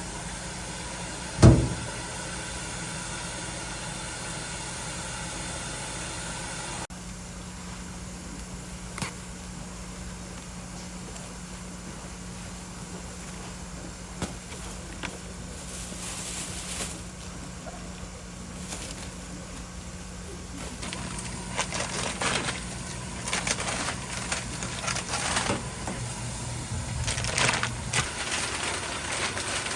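Snack-bar kitchen work sounds over a steady machine hum: one sharp knock about a second and a half in, then scattered clicks and clatters of utensils and containers, busier near the end.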